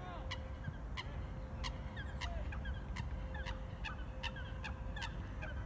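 Several birds calling: many short sharp chirps and little rising and falling notes, several a second, over a low rumble.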